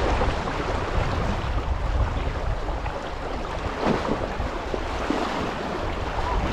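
Rushing river water with wind rumbling on the microphone, a steady noise with no pauses.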